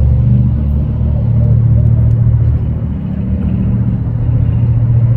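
A motor vehicle engine running close by: a steady low rumble that eases slightly around the middle and builds again near the end.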